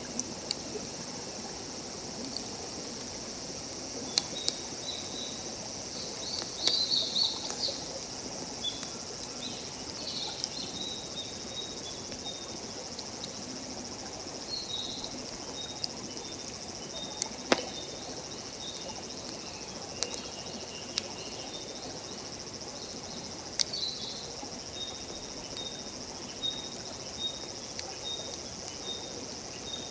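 Wood campfire crackling, with a few sharp pops (the loudest about two-thirds of the way through), over a steady chorus of insects and some short high chirps.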